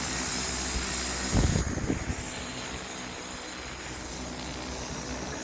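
Multirotor agricultural drone flying, its rotors giving a steady rushing hiss. About a second and a half in there is a brief louder low rumble, after which the hiss eases slightly.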